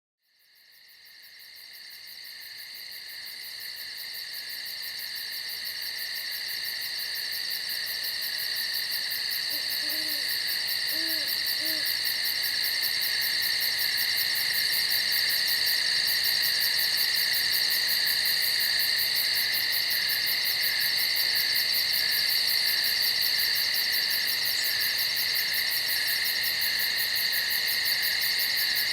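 A dense, steady chorus of night insects fading in from silence over the first several seconds. About ten seconds in, an owl gives a few faint short hoots.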